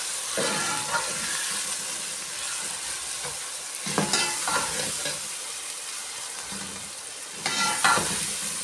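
Onion, tomato and spice masala sizzling in ghee in a metal pot as it is fried, while a metal spoon stirs and scrapes it round the pot, with louder scrapes about four seconds in and near the end.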